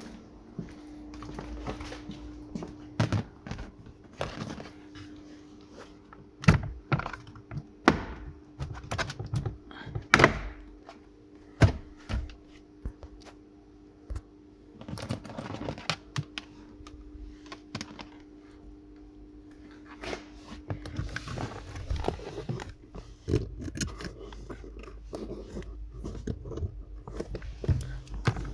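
Irregular knocks, clicks and thuds, scattered and uneven, over a steady low hum.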